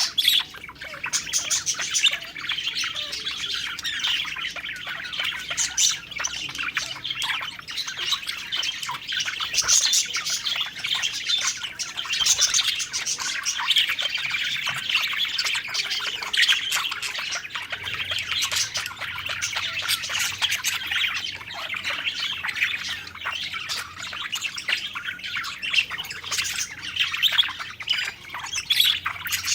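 A group of budgerigars (parakeets) chirping and warbling continuously, many rapid overlapping calls with no pause.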